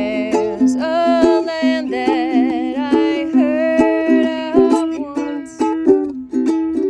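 A plucked string instrument plays short repeated notes while a woman's voice sings a wordless melody over it, the long high notes wavering with vibrato.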